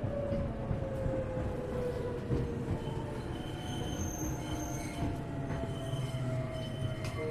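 Tokyu 1000 series electric train running, heard from inside the car: a motor whine slides steadily down in pitch as the train slows, over the rumble of the wheels. From about halfway through, thin high-pitched wheel squeal comes in.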